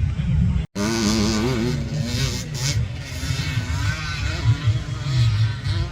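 Motocross dirt bike engines revving, the pitch rising and falling with the throttle over a low rumble. The sound cuts out briefly under a second in.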